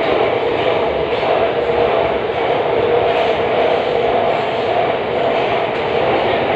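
Budapest metro train running through the tunnel, heard from inside the car: a loud, steady rumble of wheels on rail with a constant hum.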